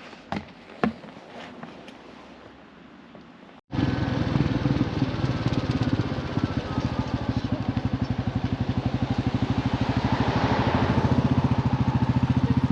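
Royal Enfield motorcycle engine running under way, a steady, rapidly pulsing beat that grows slowly louder. It cuts in abruptly about four seconds in, after a few faint clicks.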